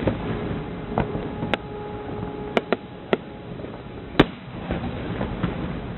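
Fireworks display finale: a steady rumble and crackle of shells going off, with about six sharp, loud bangs of bursting shells, the loudest a little after four seconds in.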